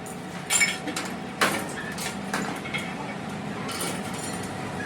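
Metal parts or tools knocking and clinking against each other a few times, with one ringing metallic strike near the end, over a steady low hum.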